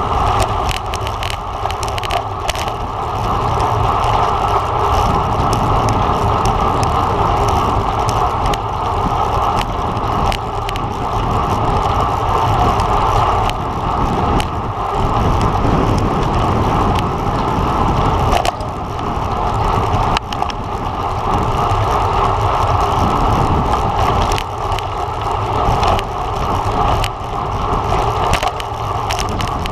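Steady wind rush and tyre noise from a road bike ridden at race speed, with a deep wind rumble on the microphone and occasional sharp clicks.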